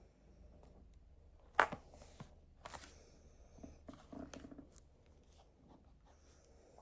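Desk sounds from studying: a sharp click about one and a half seconds in, then scattered light knocks and rustling, as of paper and stationery being handled.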